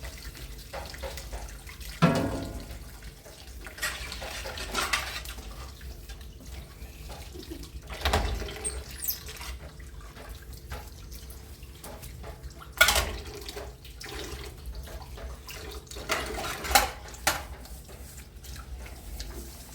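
Water running and splashing, with a few sharp knocks spread through.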